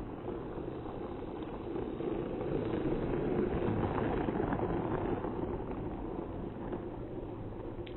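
Motorized Thomas and Friends toy train running along its track, a steady noise that grows louder about three seconds in and then eases off as it passes.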